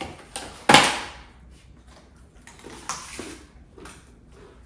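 Snacking on pumpkin spice pretzels: a loud, short crackle about a second in, then a few faint crunches.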